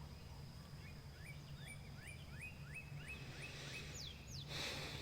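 Birdsong at dawn: a bird repeats short rising chirps, about four a second, then gives two quick falling whistles. A steady low hum runs underneath, and a soft hiss swells up near the end.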